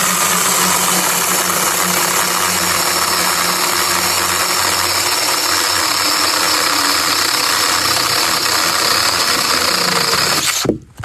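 Velotrex 8-inch mini cordless battery chainsaw cutting through a red oak limb about 3.5 inches thick, running steadily under load. It stops suddenly near the end.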